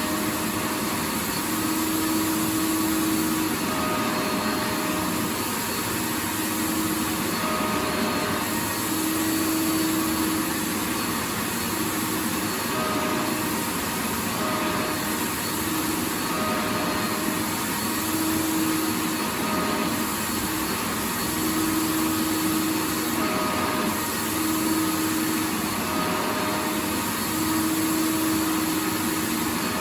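Vacuum cleaner running continuously: a steady rush of air with a motor hum that wavers in and out every second or two.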